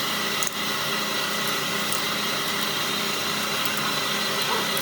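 A machine running steadily with a constant whir, dipping briefly about half a second in.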